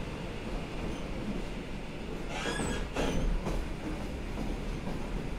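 Inside the passenger compartment of an EN57 electric multiple unit running along the line: a steady rumble of wheels and running gear, with a brief high wheel squeal and a knock about two and a half seconds in.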